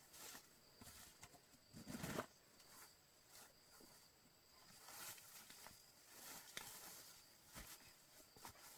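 Faint scattered rustles and light knocks, the loudest a short rustle about two seconds in, over a thin steady high tone.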